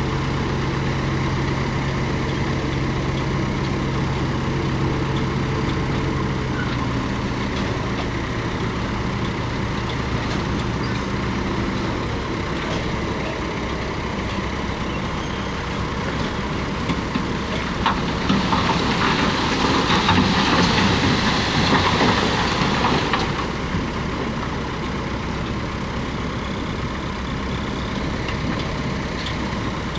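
Komatsu D31P bulldozer's diesel engine running steadily, with a louder stretch of rough clattering and scraping from about 18 to 23 seconds in as it works stone.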